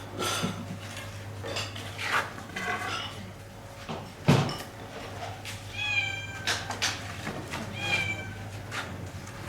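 Two short high-pitched animal calls, about two seconds apart, over scattered knocks and clatter and a steady low hum.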